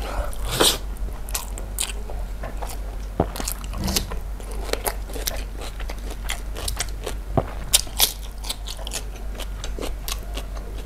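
Close-miked eating sounds of a mouthful of rice and grilled chicken eaten by hand: chewing with many short, sharp lip smacks and crunches scattered through.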